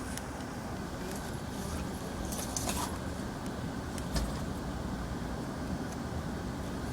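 Steady running rumble of a moving Amtrak passenger car heard from inside, with light rattling clicks and a sharper knock about four seconds in.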